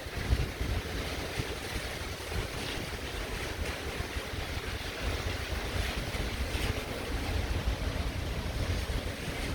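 Heavy rain falling steadily, with gusts of wind rumbling on the microphone.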